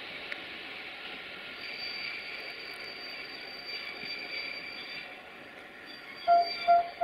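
Passenger train at the station platform: a steady hiss with a thin, high, steady whine. Near the end come three short, loud, pitched beeps in quick succession.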